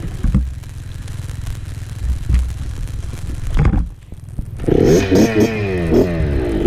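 Dirt bike engine running low and muffled, dipping briefly near four seconds. It then revs hard, its pitch climbing and falling several times as the throttle is worked.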